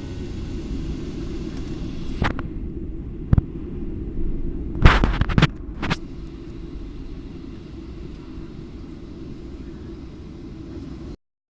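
Steady low rumble of an airliner cabin in flight, with a few short knocks and clicks a few seconds in. The sound cuts off suddenly near the end.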